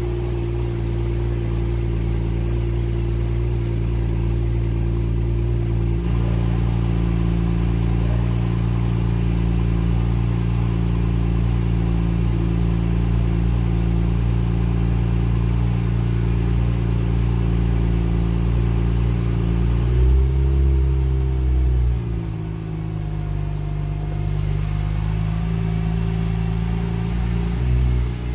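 Porsche 911 Turbo (991.1) twin-turbo flat-six idling steadily. About twenty seconds in it is revved briefly, rising and falling in pitch, and there is a short blip near the end.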